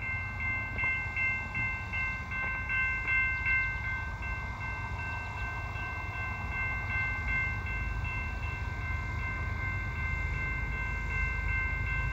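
Freight train running, a low rumble under several steady high-pitched ringing tones. The tones pulse in quick repeats for the first few seconds, then hold steady.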